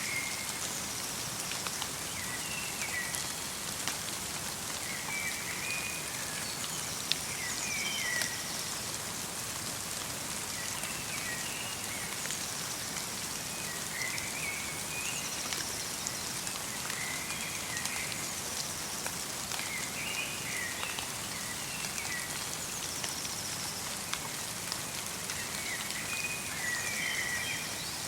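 Steady light rain pattering in a winter forest, while a songbird repeats short chirping phrases every few seconds.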